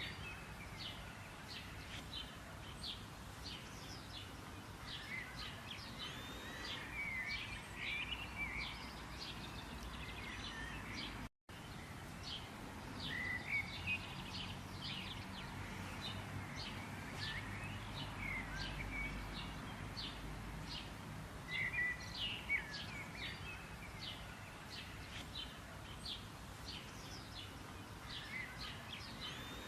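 A chorus of songbirds chirping and trilling over a steady background hiss, the calls coming thick and overlapping throughout. The sound cuts out completely for a split second about eleven seconds in.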